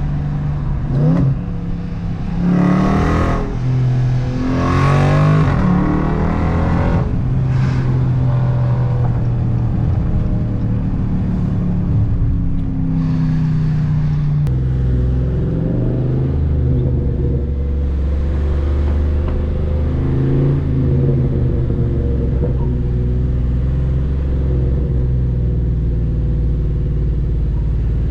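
Dodge Charger Scat Pack's 392 (6.4-litre) Hemi V8 through catless mid-pipes: revving and accelerating with rising pitch in the first few seconds, then settling into a steady deep exhaust rumble for the rest.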